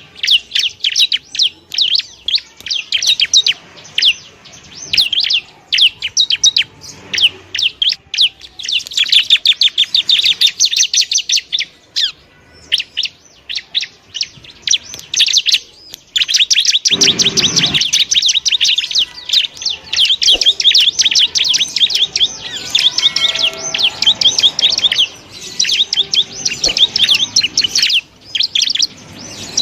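Bar-winged prinia (ciblek) singing: rapid high chirps that run together into long, fast trills, broken by short pauses.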